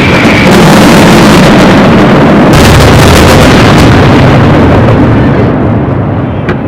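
Fireworks finale: a loud, continuous barrage of shell bursts and crackle, the traca final. The crackle turns brighter about two and a half seconds in, then the barrage dies away over the last second, with one last sharp bang near the end.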